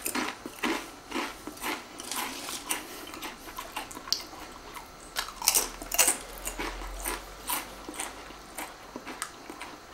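A person chewing Pringles Scorchin BBQ potato crisps close to the microphone: irregular crunches and mouth clicks, a few a second.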